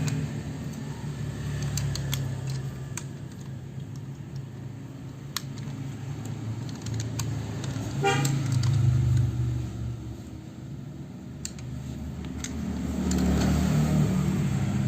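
Scattered sharp clicks with a quick run of ticks about eight seconds in, over a low hum like an engine that swells and fades several times.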